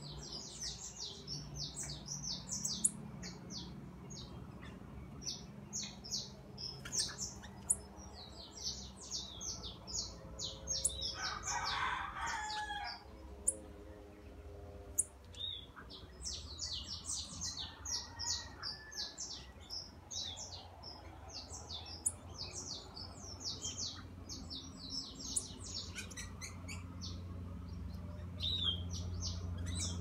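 Small birds chirping busily in quick, short, high notes that hardly pause. About twelve seconds in, a longer, lower call of a second or two stands out above them.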